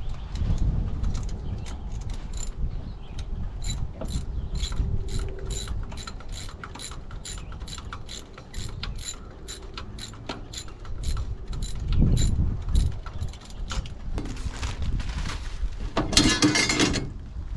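Hand ratchet wrench clicking in a steady rhythm, about three clicks a second, as bolts are worked loose during the removal of an engine's cylinder heads. A louder noise lasting about a second comes near the end.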